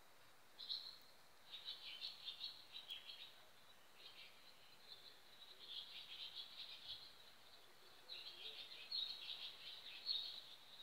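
Small birds chirping at dawn, in irregular bouts of quick high chirps with short pauses between them.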